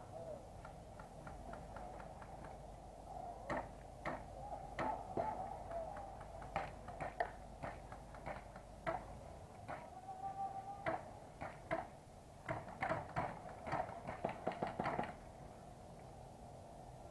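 Scattered sharp snaps of airsoft guns firing some way off. They come singly at first, then in quick clusters about three-quarters of the way through, over a faint wavering background hum.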